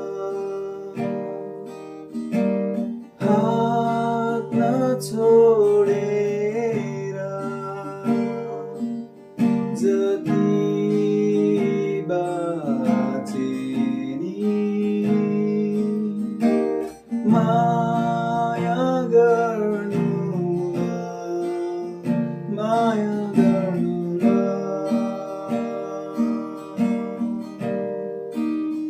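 Acoustic guitar strumming chords steadily, with a sliding melody line over it in several stretches.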